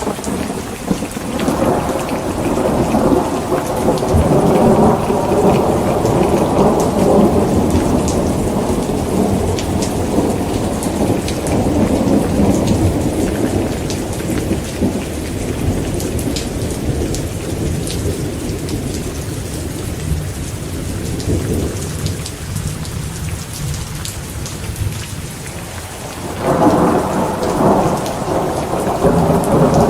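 Heavy rain falling steadily, with a long rolling rumble of thunder that builds about a second in and slowly fades, and a second roll of thunder starting near the end.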